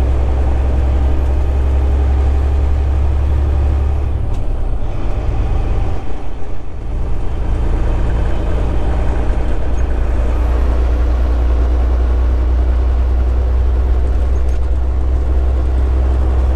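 Semi-truck engine droning, heard from inside the cab while driving. About four seconds in the low drone eases off, then returns about three seconds later and holds steady.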